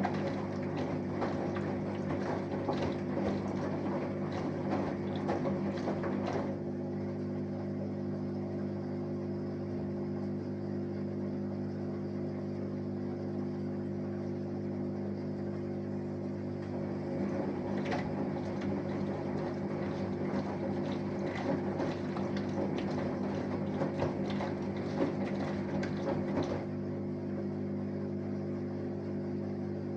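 Samsung Eco Bubble 6.5 kg inverter-motor washing machine running mid-wash with a steady hum. Water and laundry slosh in the turning drum for the first six seconds or so, then again from about eighteen to twenty-seven seconds in.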